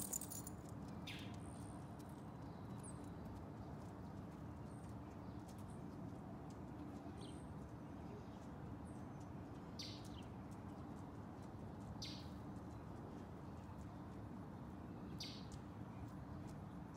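Small birds chirping now and then, short high chirps a few seconds apart, over a steady low hum.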